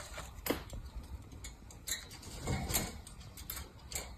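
A parrot moving about and handling paper: a few scattered light clicks and taps, spaced a second or so apart.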